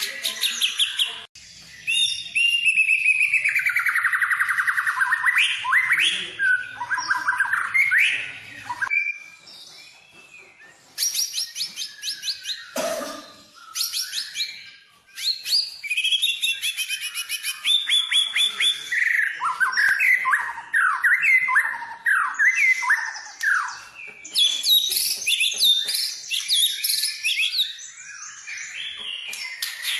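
White-rumped shama (murai batu) singing a long, varied song of rapid repeated notes, trills and falling whistled phrases, with a brief lull about ten seconds in.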